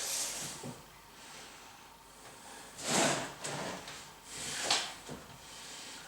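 Laminate boards scraping and sliding as they are handled and fitted, three short scrapes with quieter rustling between.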